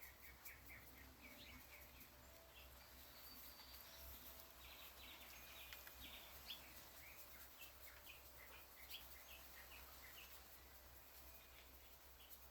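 Faint birdsong from outdoors: small birds chirping in short repeated notes, over a low steady background hum.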